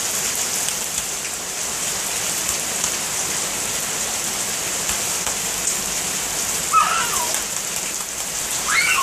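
Heavy rain pouring onto a paved driveway, a steady hiss. A short high-pitched voice sound breaks in twice near the end.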